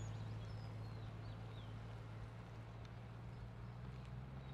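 A steady low hum that steps slightly higher in pitch near the end, with birds chirping and whistling here and there.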